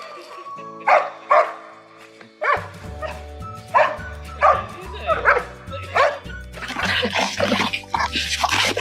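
Dog barking in short sharp barks again and again over background music; a bass beat comes into the music about two and a half seconds in.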